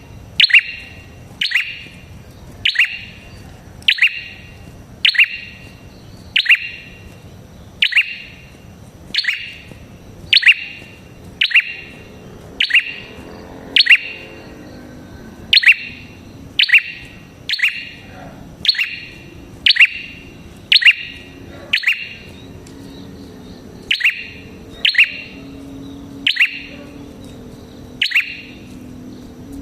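Red-headed prenjak (prenjak kepala merah) calling: a sharp, high chirp with a quick downward sweep, repeated steadily about once a second, with a couple of brief pauses. This is a lure call used to draw wild prenjak to answer.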